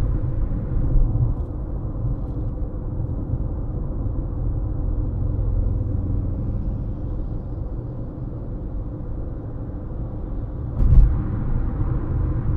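A car driving at steady speed: an even, low road and tyre rumble. There is a single thump about eleven seconds in.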